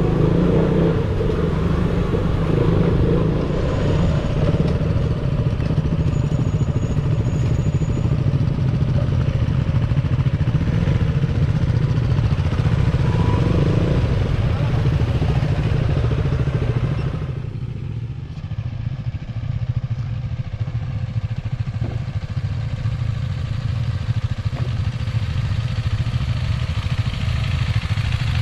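Motorcycle engine running under way with wind rushing over the camera mic. About two-thirds of the way through, the sound turns duller and dips slightly in level.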